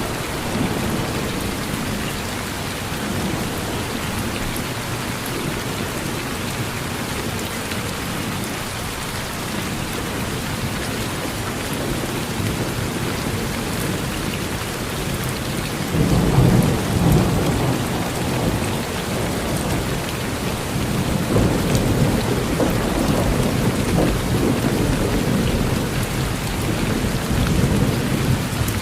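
Steady rain falling, with a low rumble of thunder that breaks in suddenly a little past halfway and rolls on, swelling again a few seconds later.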